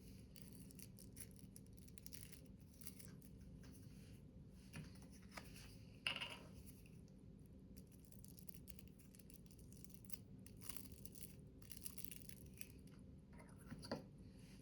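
Faint paper handling: light rustles and small ticks over a low room hum, with two sharper clicks, one about six seconds in and one near the end.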